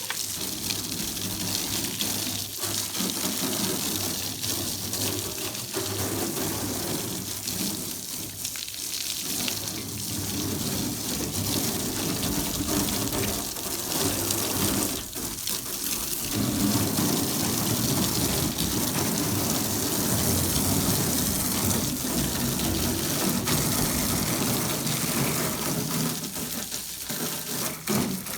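A water jet spraying and splashing on an aluminum boat hull, rinsing off aluminum brightener, steady with a few brief breaks as the spray is let off or moved.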